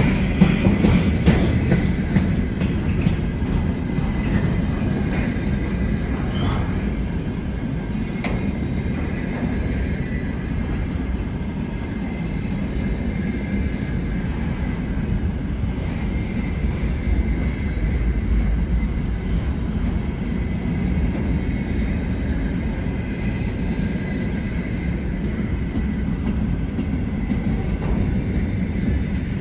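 Container freight train rolling past with a steady rumble of wheels on rails and a few faint clicks.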